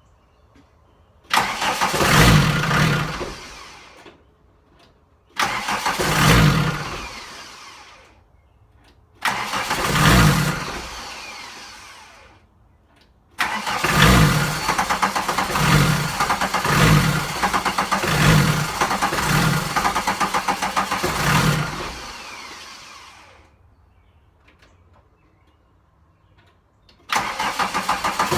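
VW 1.6 TD four-cylinder turbodiesel being tried five times. Each try catches suddenly and dies away over a few seconds without running. The longest try surges about once a second for several seconds before fading: the engine won't start and only surges.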